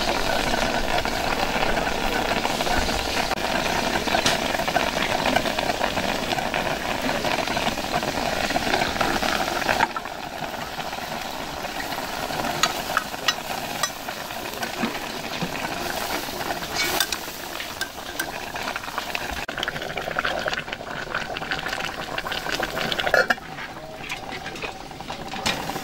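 Food frying in a pan, a steady sizzle with scattered clicks of a utensil stirring. The sizzle drops to a lower level about ten seconds in.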